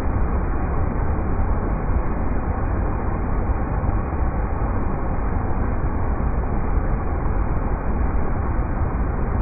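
River rapids rushing: a steady, unbroken wash of water noise, heaviest in the low rumble.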